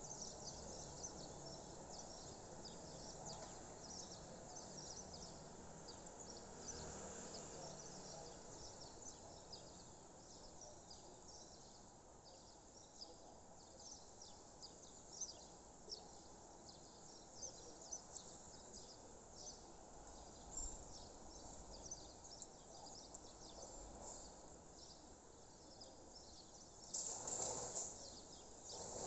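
Faint outdoor dawn ambience with many quick, high bird chirps going on throughout over a soft steady hiss. A louder, brief sound of about a second comes near the end.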